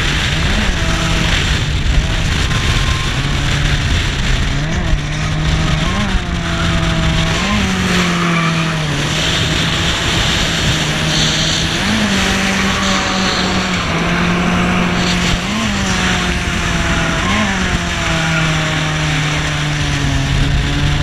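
Drift car's engine heard from on board through a drift run, holding high revs with about seven sharp blips and dips in pitch as the car transitions, over a constant rush of tyre and wind noise.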